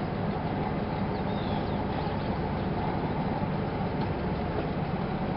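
Vehicle engine running steadily at idle, a constant low rumble.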